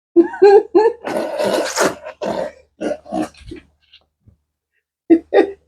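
A person coughing and clearing their throat in a run of short harsh bursts, with one longer rasping cough-splutter about a second in, then a pause before two more short coughs near the end.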